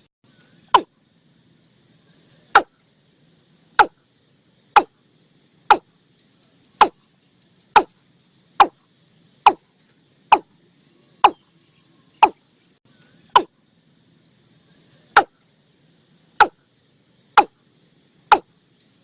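Male watercock calling: a single short, sharp note repeated about once a second, slightly irregular, over a faint steady chirring of insects.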